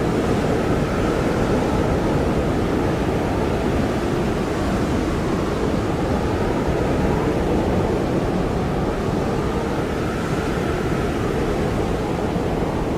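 Blizzard wind blowing steadily, a deep rushing noise with a faint whistle that wavers up and down.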